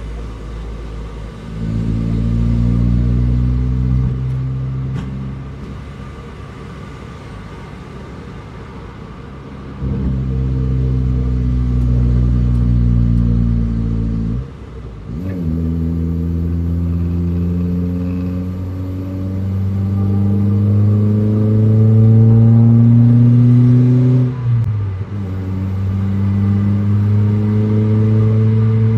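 Toyota Paseo's four-cylinder engine heard from inside the cabin, pulling hard under throttle, easing off for several seconds, then accelerating again in a long rising pull. A gear change near the end drops the pitch before it climbs again.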